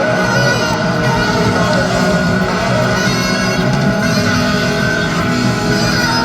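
A live rock band playing, with an electric guitar carrying sustained, gliding notes over the band.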